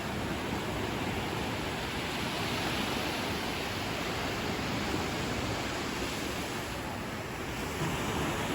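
Ocean surf on a beach: a steady rush of waves, swelling a little about three seconds in and again near the end.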